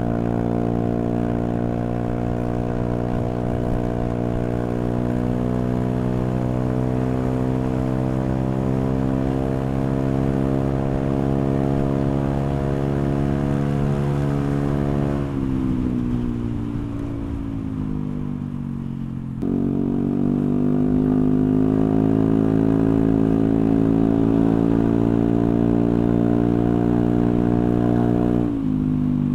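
Honda Vario 125 scooter's single-cylinder engine through a CLD C3 oval racing exhaust with the dB killer removed, revved and held at a steady high pitch. The revs drop about halfway through, come back up sharply a few seconds later, hold again, and fall off near the end.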